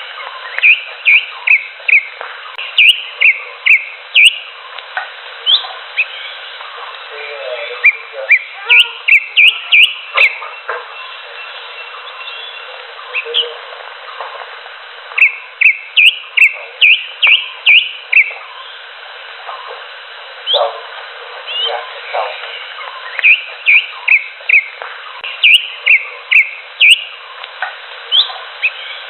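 Cucak hijau (greater green leafbird) singing: runs of short, rising whistled notes, several a second, in phrases with brief pauses between them, over steady background noise.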